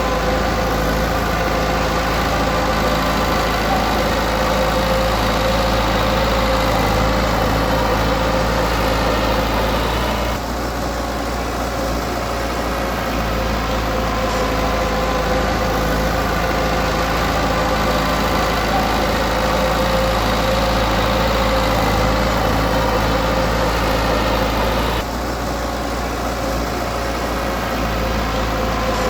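Diesel engine of heavy earthmoving machinery running steadily. It eases off briefly twice, about ten seconds in and again near the end, then picks up again.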